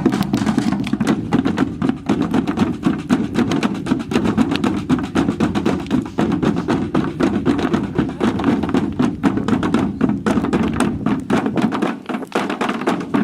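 Drumming: a fast, continuous roll of many quick drum strikes without a break.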